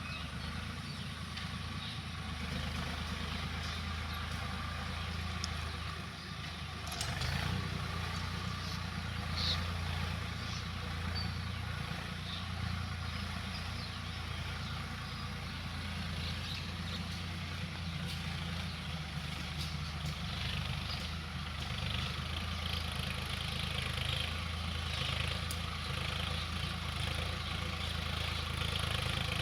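Swaraj tractor's diesel engine running steadily, getting a little louder about seven seconds in.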